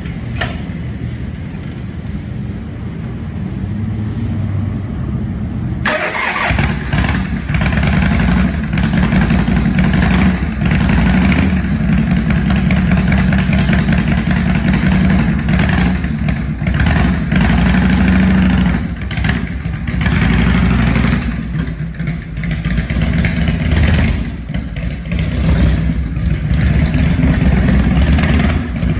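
1975 Harley-Davidson FLH Shovelhead V-twin being started and then running, rumbling through its three custom exhaust pipes. About six seconds in it turns much louder and fuller, and its level then rises and falls as the throttle is worked.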